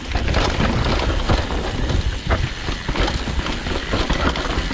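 Mountain bike descending a wet, muddy trail. Wind buffets the microphone in a constant low rumble over tyre noise, with frequent small knocks and rattles from the bike.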